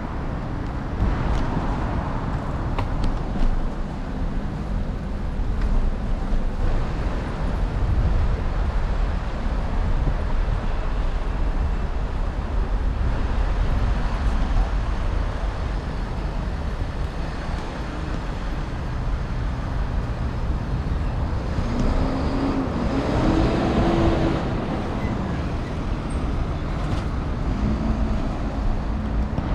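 City street traffic: a steady rumble of passing cars and buses. About two-thirds of the way through, a short pitched sound rises and falls, and a brief steady tone follows a few seconds later.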